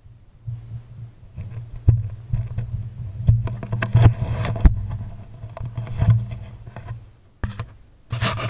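1978 Suzuki GS750's air-cooled inline-four engine running as the motorcycle rides along a gravel road, a steady low drone that grows louder about half a second in. Sharp knocks and clicks sound over it throughout, and a louder, noisier burst comes near the end.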